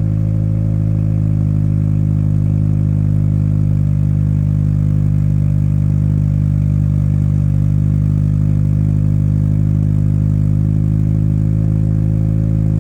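Hyundai Sonata N Line's turbocharged 2.5-litre four-cylinder idling steadily shortly after a cold start, heard through a custom exhaust of 2.5-inch and 2-inch pipe with a resonator and straight-through mufflers. The note holds one steady pitch with no revving.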